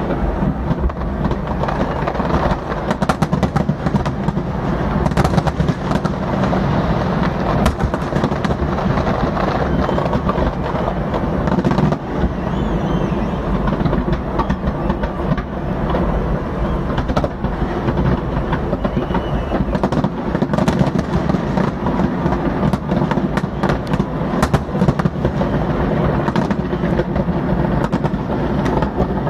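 Fireworks display: a continuous barrage of many sharp bangs and crackles over a steady rumble.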